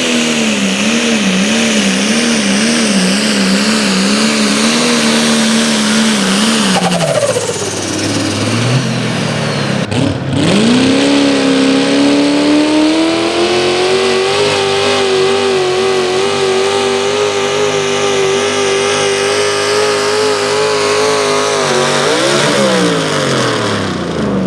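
A competition pulling vehicle's engine running at high revs under load, its pitch wavering, then falling sharply about a third of the way in. After a short break the engine picks up again and holds a higher, steady pitch, then drops off once more near the end.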